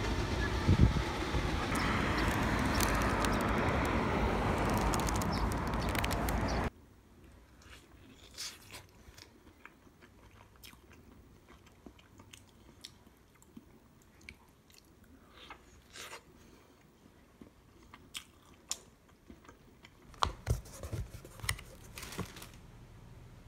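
Steady traffic noise for about the first seven seconds, cutting off suddenly. Then quiet, scattered crunching and chewing of pizza, heard close, with a cluster of louder clicks at about 20 to 22 seconds.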